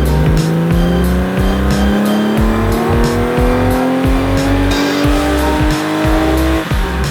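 Porsche 964's rebuilt 3.8-litre air-cooled flat-six accelerating, its pitch rising steadily through the revs for about six and a half seconds and then cutting off, over background music with a steady beat.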